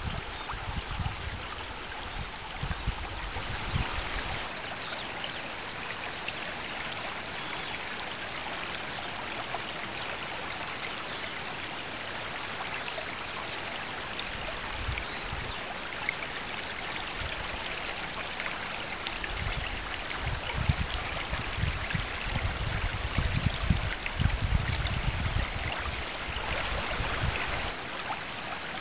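Spring meltwater stream running and trickling over a small waterfall, a steady rush of water. Bursts of low rumble come in the first few seconds and again through the second half.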